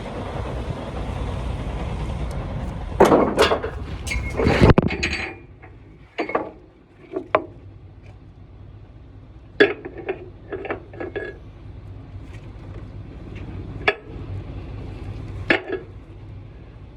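Metallic clinks and knocks of ratchet-strap hardware being worked while a flatbed load is tightened down, loudest in a cluster about three to five seconds in, then scattered single clicks. Wind noise on the microphone during the first five seconds.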